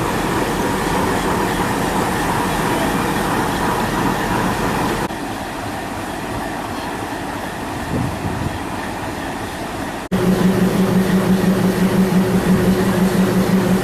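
Train running on rails, heard in three edited shots. From about ten seconds in, a steady low hum takes over.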